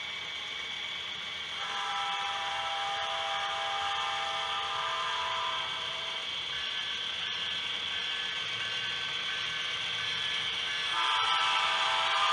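Sound-equipped HO scale model diesel locomotive sounding a multi-note air horn in long blasts over a steady engine hiss. The first blast starts about a second and a half in and holds for about four seconds, and the full chord sounds again near the end.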